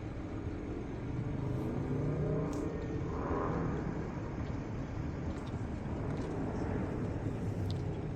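A car driving by on the street: engine and tyre noise swell about a second in and ease off after about three seconds, over a steady low rumble of traffic.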